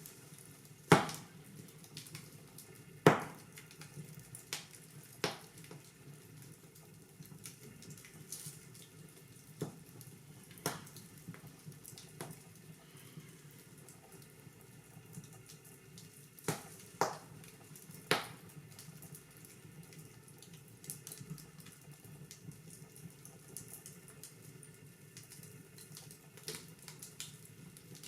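Wood fire burning in a fireplace: a steady low hiss with irregular sharp crackles and a handful of loud pops.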